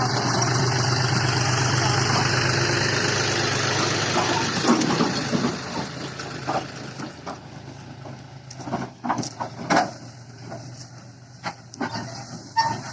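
Tractor diesel engine running hard under load for about five seconds, then dropping away, after which scattered sharp knocks and clicks are heard.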